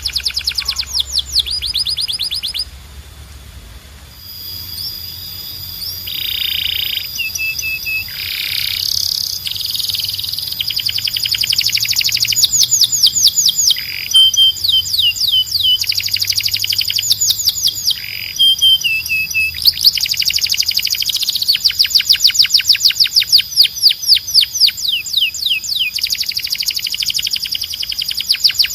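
Canary singing: long rolls of rapidly repeated falling notes, broken up by held whistles and short trills, with a brief lull about three seconds in.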